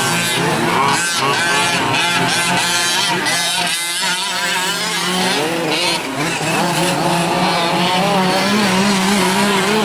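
Several 5th-scale gas RC trucks' small two-stroke engines racing together, their overlapping whines rising and falling in pitch as they rev up and back off through the corners.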